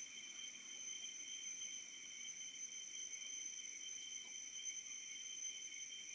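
Steady high-pitched chirring of insects, several pitches at once, going on without a break.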